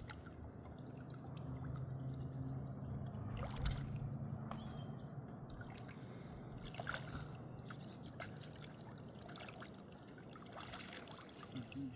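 River water trickling and flowing, with a few sharp clicks and knocks scattered through it and a faint low hum that fades out about five seconds in.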